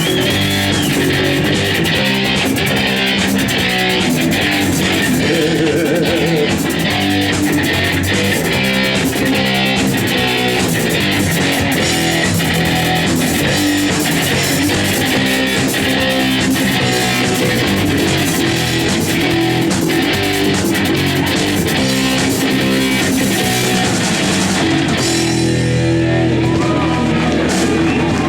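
Live rock band playing an instrumental passage on electric guitars, bass guitar and drum kit. About 25 seconds in the drums drop out and the guitars ring on.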